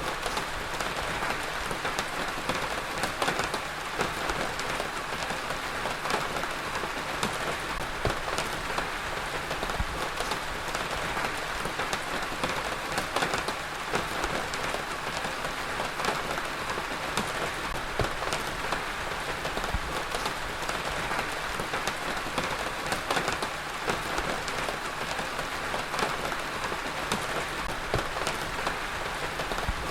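Heavy rain falling steadily, a dense even hiss with many individual drops pattering on a surface.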